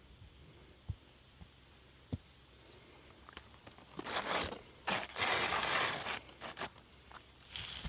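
Asphalt roofing shingles being handled, with scraping and rustling in several bursts from about halfway through, after two sharp knocks in the first two seconds.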